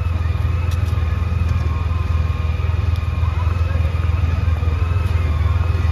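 Police motorcycle's engine idling close by, a steady low rumble.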